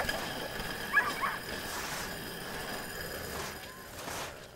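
Running sled dogs giving a few short, high yips and whines about a second in and again briefly near the end, over a steady hiss.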